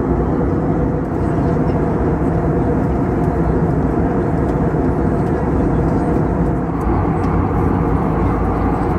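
Steady cabin noise of an Airbus A321neo in flight, heard from inside the passenger cabin: a constant low rumble of engines and airflow with no changes.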